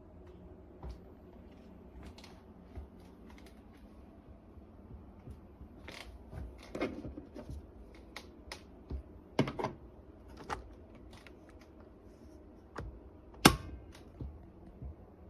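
Handling noises: scattered light clicks and taps, with a louder sharp knock about two seconds before the end.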